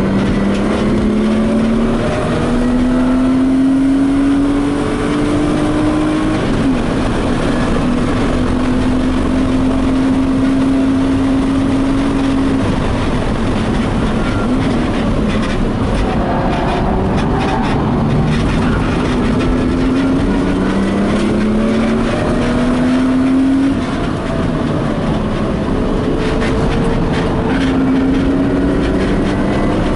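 BMW E36 coupe's engine under hard track driving, heard from inside the stripped cabin: the pitch climbs over several seconds and then falls back sharply, about four times, with one steady stretch about eight to twelve seconds in.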